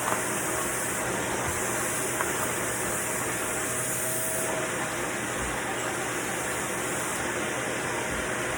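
Vacuum cleaner running steadily, a constant rush of motor and air noise with a faint steady hum.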